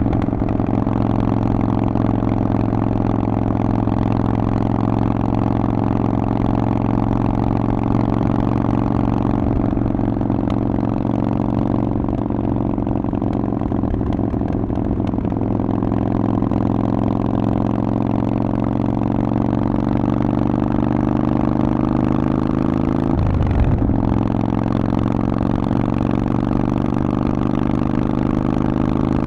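Harley-Davidson Forty-Eight's 1200 cc V-twin running through a Vance & Hines exhaust while riding, its note steady and slowly shifting in pitch. Near the end the note breaks briefly, then climbs gradually as the engine pulls again.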